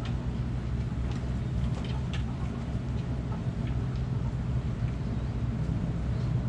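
A steady low mechanical hum, with a few faint short high chirps or clicks over it.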